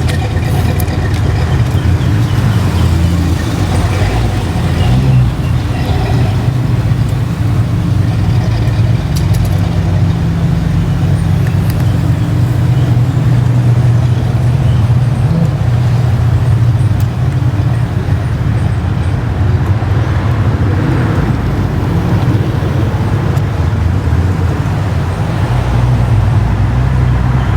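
Road traffic: car engines running, with a loud, steady low rumble.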